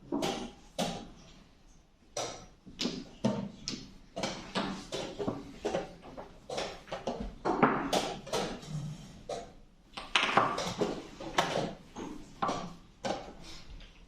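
Chess pieces being set down hard on the board and the chess clock being hit in quick alternation during a blitz game: a stream of irregular sharp knocks and clicks, at times several a second.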